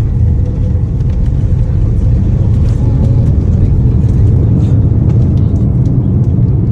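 Airliner noise heard from inside the plane: a loud, steady low rumble of the engines and airflow.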